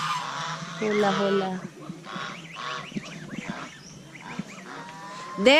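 Farm poultry calling: a quick series of short calls about two seconds in, fading to quieter bird sounds after.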